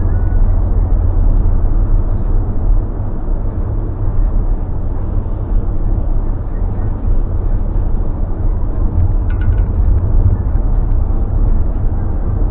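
Steady low rumble of a car driving, engine and tyre noise heard from inside the cabin. A brief faint higher-pitched sound comes in about nine seconds in.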